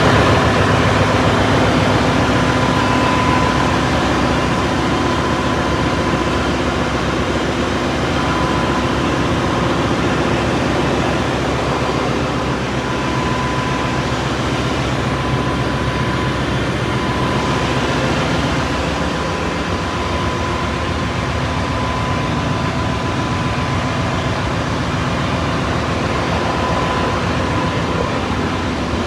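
Ship's engine-room machinery running: a loud, steady drone with a thin, constant whine and a lower hum over it.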